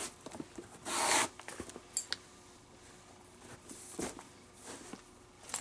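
Leather lace drawn through the lace holes of a baseball glove during relacing: one loud zip-like rasp about a second in, shorter pulls near two and four seconds, and small clicks and rubs of leather being handled.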